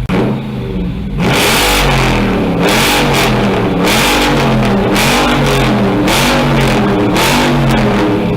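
2017 Dodge Charger Daytona's HEMI V8 exhaust, running near idle, then from about a second in revved again and again in quick blips, the pitch climbing and dropping back each time.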